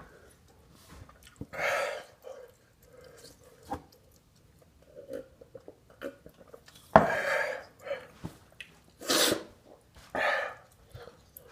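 A man straining to eat takes four loud, heavy breaths, with small wet chewing and mouth noises between them.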